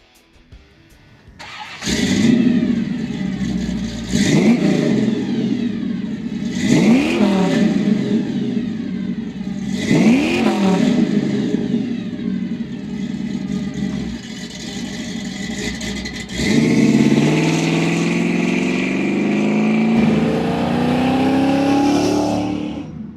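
1956 Chevy Bel Air's engine breathing through a custom 3-inch header-back exhaust with Flowmaster Super 40 mufflers. It fires up about two seconds in and is revved three times, each rev rising and falling in pitch, settling back to idle between revs. From about two-thirds of the way through it holds a higher, steady note.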